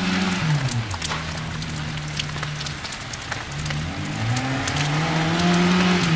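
Lada rally car's four-cylinder engine being driven hard. It eases off and falls in pitch about half a second in, runs steadily at a lower pitch, then revs up around four seconds in and holds high before dropping off at the end. A scatter of short crackles runs over it. The engine has been fitted with higher valve lift that is being tried out.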